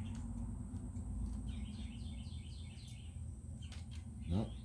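A bird chirping a quick run of short repeated notes about a second and a half in, over a steady low hum. A few light clicks near the end, from small plastic parts being handled.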